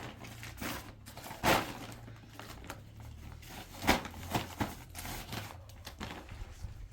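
Rustling and handling noises with scattered clicks, and two louder sharp knocks about one and a half and four seconds in.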